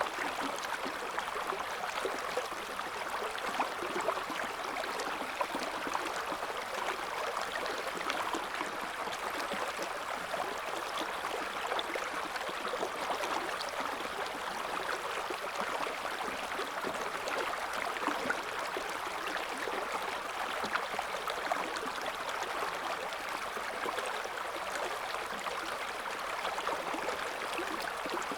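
River water flowing over stones in a steady, gentle rush, with many small splashes and gurgles throughout.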